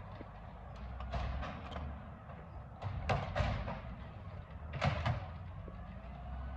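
Garbage truck's engine running low and steady, with a series of bangs and clatters, the loudest about three and five seconds in.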